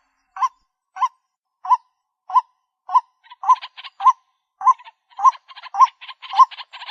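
White-breasted waterhen calling: a short note repeated about every half second. From about three seconds in, a harsh rasping chatter joins the notes and builds.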